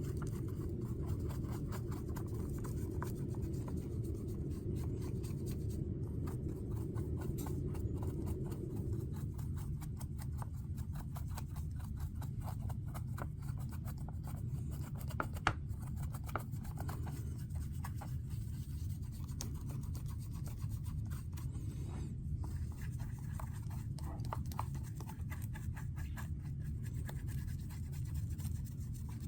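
Small brush rubbing and burnishing powder into a mold: a soft, continuous scratching of many quick strokes, over a steady low hum.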